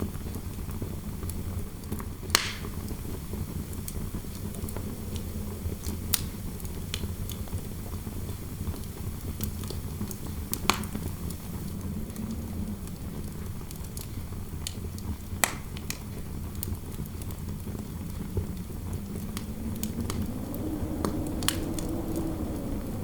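Log fire crackling over a steady low rumble of interior wind, with a handful of sharp pops spread a few seconds apart. Near the end the wind swells into a low howl that rises and then eases.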